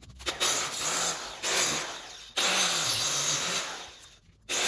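Angle grinder with a cutting disc cutting masonry in several short passes, each starting abruptly and fading away, the motor's pitch sagging as the disc bites.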